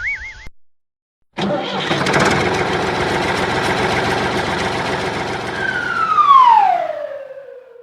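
A vehicle engine starts abruptly and runs steadily for several seconds, then winds down near the end with a sharply falling pitch.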